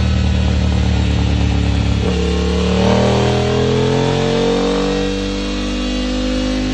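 KTM 890 Duke R's parallel-twin engine through a full Akrapovič exhaust under load on a dynamometer. It runs steadily at first, then from about two seconds in its pitch climbs steadily as it pulls up through the revs in a dyno power run.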